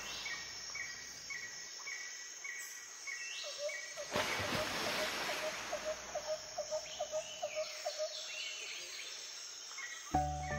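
Outdoor ambience with birds calling: a regular series of short high pips, two or three a second, for the first few seconds, then a run of lower chirps that quicken and grow louder through the middle. There is a brief gust-like rush about four seconds in, and music starts just before the end.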